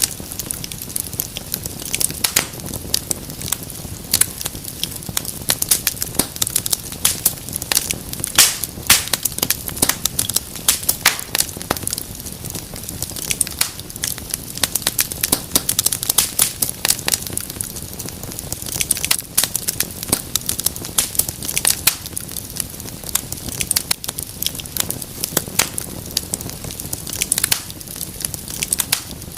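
Wood fire in a fireplace crackling: dense, irregular sharp pops and snaps over a low steady rush of the flames.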